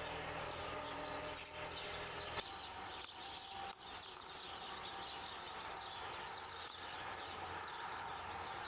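Outdoor ambience with many small birds chirping. A low engine hum cuts off suddenly a little over two seconds in.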